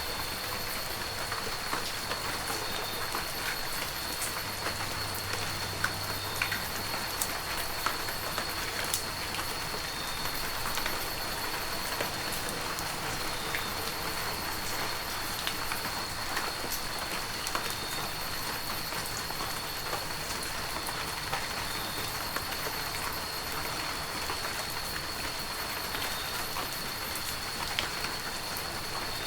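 Heavy rain falling steadily, with many individual drops ticking sharply close by. A thin, steady high tone runs underneath the rain.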